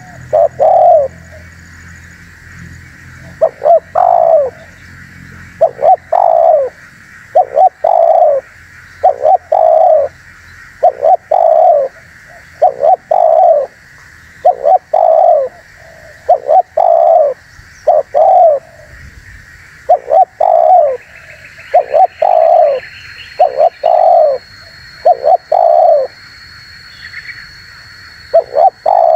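Spotted dove (tekukur) cooing over and over: short, falling coo notes in quick little phrases separated by brief pauses, over a steady faint background hiss.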